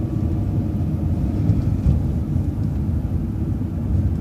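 City transit bus running along the street, heard from inside: a steady low rumble of engine and road noise.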